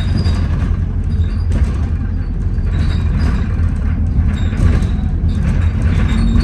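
Interior of a moving Alexander Dennis Enviro400 double-decker bus: a steady, heavy low rumble from the engine and drivetrain.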